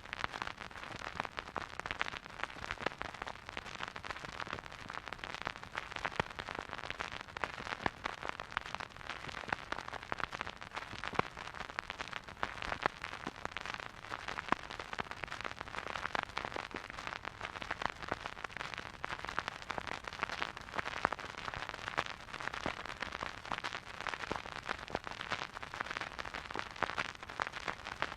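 Vinyl record crackling as the stylus plays a silent groove: a steady hiss dotted with dense, irregular clicks and pops.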